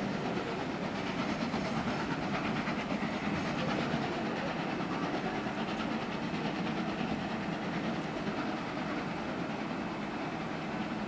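Train of passenger coaches rolling over pointwork, a steady rumble with faint wheel clatter.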